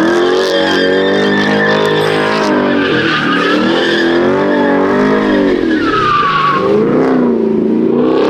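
A V8 muscle car's engine is held at high revs during a burnout, its pitch rising and falling as the tires squeal and skid. About six seconds in, a high squeal slides downward.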